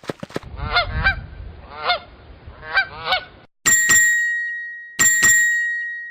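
Goose honking: about five short nasal honks, some in quick pairs. Then two bright bell-like chime strikes about a second and a half apart, each ringing out.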